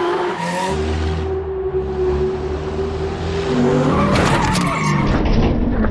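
Monster truck engine revving hard with tyre skidding noise, its pitch rising and falling.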